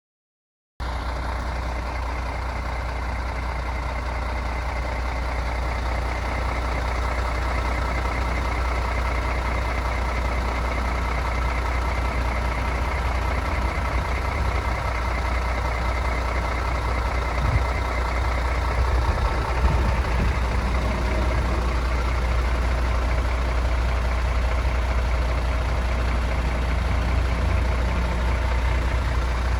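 MAN TGX 26.470 truck's 470 bhp Euro 6 straight-six diesel running steadily, cutting in suddenly about a second in.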